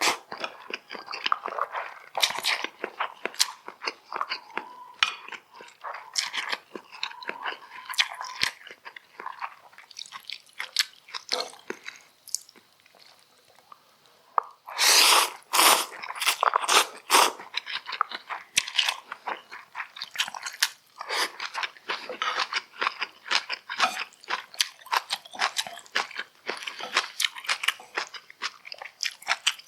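Close-miked eating sounds of a person chewing and biting food, a dense run of short sharp clicks. The clicks thin out to a brief lull about halfway through, then a louder cluster of bites follows.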